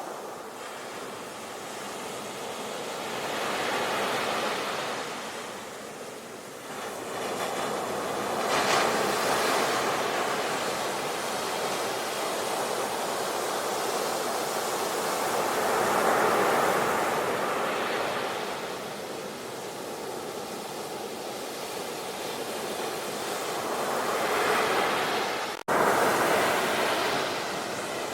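Ocean surf: waves breaking and washing ashore, the sound swelling and ebbing with a loud surge every several seconds. Near the end the sound breaks off for a split second and comes back loud.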